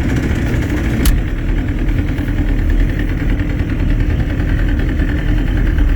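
Small boat's gasoline motor running steadily while the boat is under way, with one short click about a second in.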